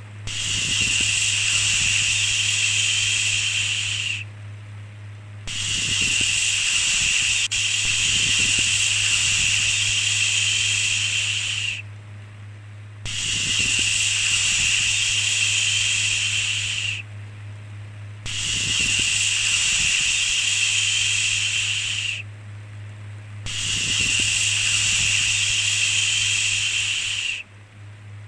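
Long "shhh" shushing sounds, each held about four to six seconds with a pause of about a second between, repeating five times over a steady low hum.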